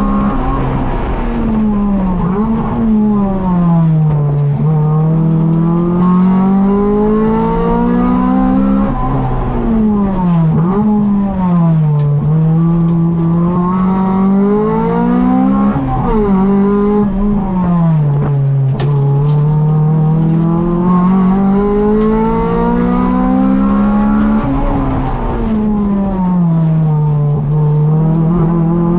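Honda B18C 1.8-litre DOHC VTEC four-cylinder engine heard from inside the Civic EG's cabin, revving hard and dropping back over and over as the car accelerates and slows through tight corners.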